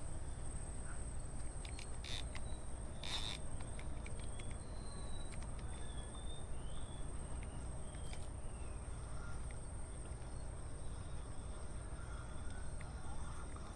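Outdoor ambience: a steady high-pitched insect drone over a low rumble, with a few short chirps and scattered faint clicks.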